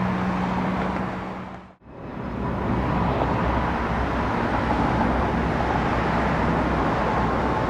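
Steady engine rumble that fades out to nothing about two seconds in and comes straight back, then runs on evenly with a deep low end.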